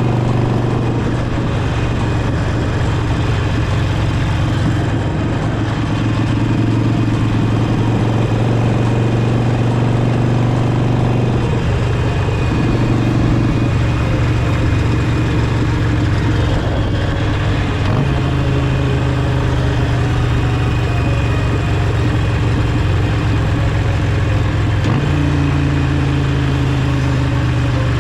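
Harley-Davidson Sportster's air-cooled V-twin running while riding, a steady engine note over road and wind noise; the pitch steps up and down a few times as the revs change.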